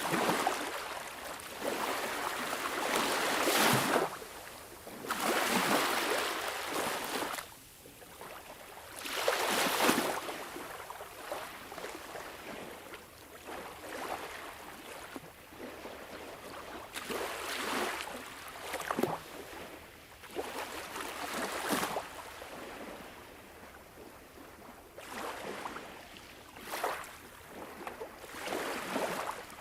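Sea waves washing in, in repeated surges that swell and fall away every few seconds, the biggest in the first ten seconds.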